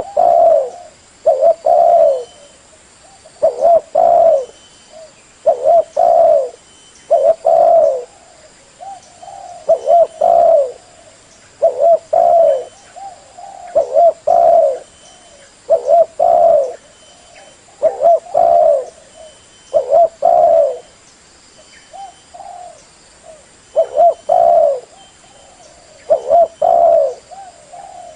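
Spotted dove (tekukur) cooing over and over: short phrases of a few rolling coo notes, repeated every one to two seconds.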